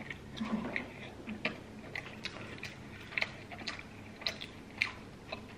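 Close-miked chewing of a mouthful of toasted chicken and pepperoni sub sandwich: an irregular string of small sharp mouth clicks, about two a second.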